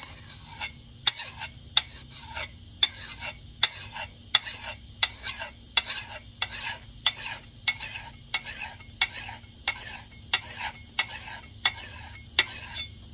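Hand file scraping across the steel axe head in steady strokes, about two a second, each stroke starting with a click and trailing into a rasping hiss, cutting the bevel deeper.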